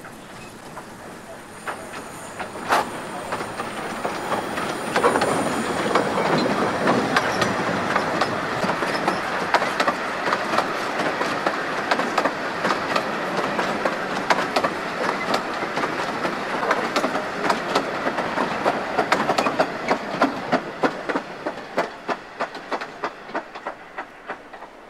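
Narrow-gauge steam train passing close by: the clatter builds as it approaches, stays loud while the coaches go past with their wheels clicking over the rail joints, then fades to a run of separate clicks as the last coaches draw away.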